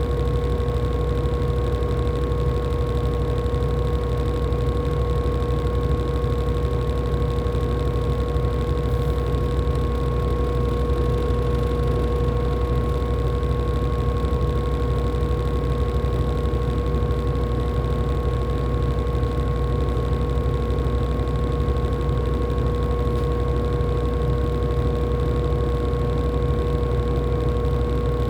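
LG top-loading washing machine running with a steady, unchanging whine over a low hum.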